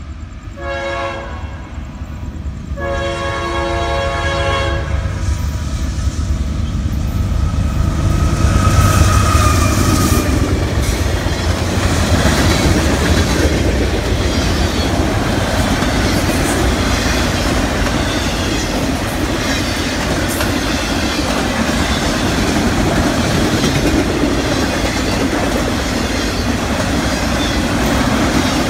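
Freight train approaching a grade crossing: the locomotive's horn sounds a short blast, then a longer one. The train then passes close by, loudest about eight seconds in, settling into the steady rumble of autorack cars rolling over the rails with wheels clacking at the rail joints.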